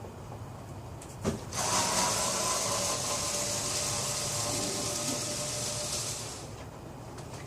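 A click, then a small power tool motor runs steadily for about five seconds with a hissing whir, and it stops shortly before the end.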